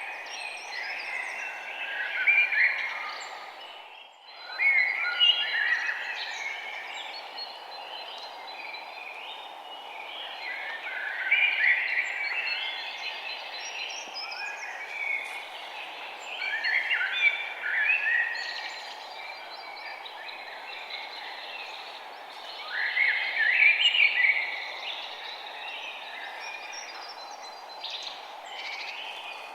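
Songbirds chirping and singing in bursts of phrases that come about every five or six seconds, over a steady background hiss. The sound drops out briefly about four seconds in.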